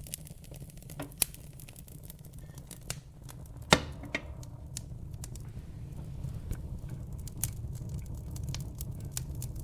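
Wood fire burning in a fireplace: scattered sharp crackles and pops over a steady low rumble of flame, with one loud pop a little under four seconds in.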